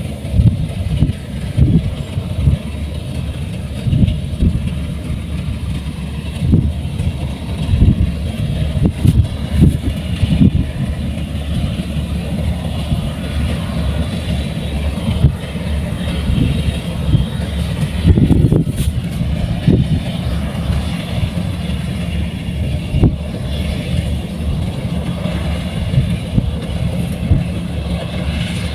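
Heavy farm machinery's diesel engine running steadily, with frequent irregular low surges and thumps over the drone.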